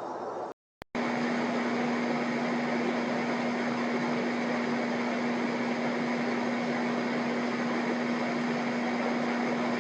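Steady mechanical whirring with one constant humming tone, broken by a short cut to silence just before a second in.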